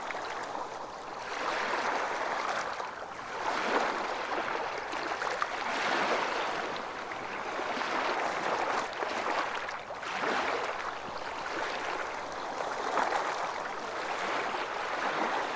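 Calm small waves lapping and sloshing, swelling and easing every few seconds, with small splashes and drips through it.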